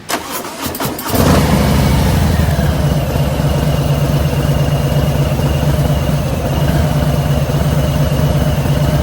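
Harley-Davidson motorcycle engine, loud and steady from about a second in, after a few sharp clicks at the start.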